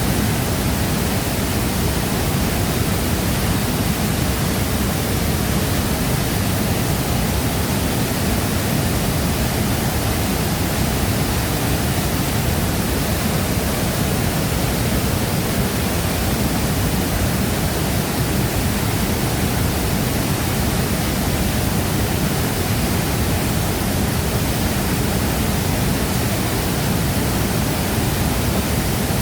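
A waterfall crashing down with a constant, even rush of water.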